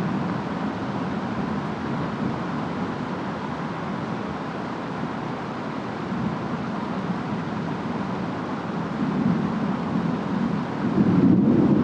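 Steady rainstorm noise of rain and wind, swelling into a louder low rumble about eleven seconds in.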